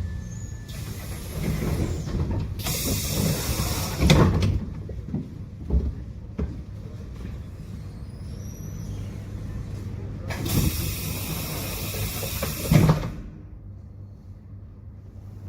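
Tram at a stop, its pneumatic doors and air system hissing in two loud bursts, each ending in a thump as the doors close or open, over the tram's steady low rumble.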